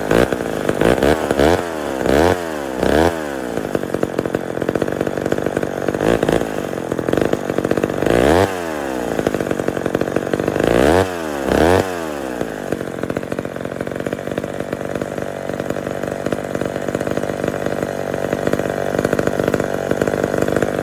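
McCulloch Mac 10-10 two-stroke chainsaw running: it revs up and drops back to idle in a string of quick throttle blips, then settles to a steady idle for the second half.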